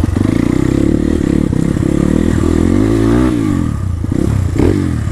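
Dirt bike engine running under throttle, held at steady revs and then revving up and down twice in the second half.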